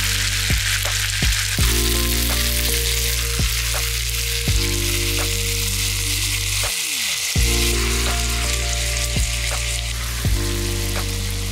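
Chicken thighs sizzling in oil in a frying pan as char siu sauce is poured in and spread over them with a spatula, with scattered light clicks. Background music with a steady low bass plays under the sizzle.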